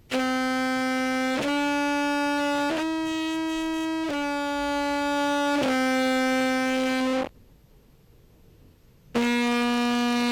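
Contrabass clarinet amplified through a compressor and effects pedal chain, playing five sustained notes that step up and back down, then, after a pause of about two seconds, another held note near the end. The notes come out at a very even volume under the compression.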